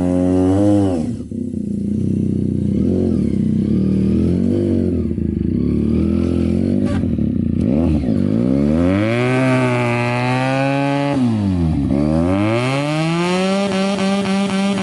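Benelli TNT 300's liquid-cooled twin-cylinder engine running loud through an aftermarket SC exhaust. The revs dip near the start, hold with small wavers, then climb about eight seconds in and hold high. They fall away about eleven seconds in, then climb and hold high again.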